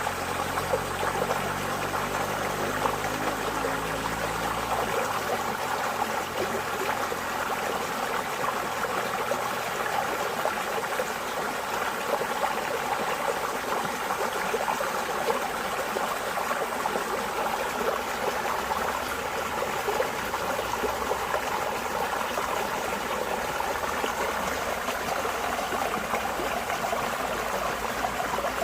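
Water flowing steadily, like a small stream, in a continuous even rush. For about the first five seconds a low rumble sits underneath it, then it drops away.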